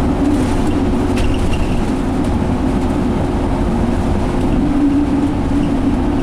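Cabin noise inside an Alexander Dennis Enviro500 double-decker bus with a Cummins ISL diesel and Allison automatic transmission, running steadily: a constant engine and drivetrain hum under road noise.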